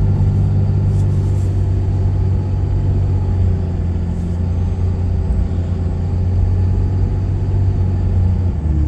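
Steady low drone of a pickup truck driving, engine and tyre noise heard from inside the cab.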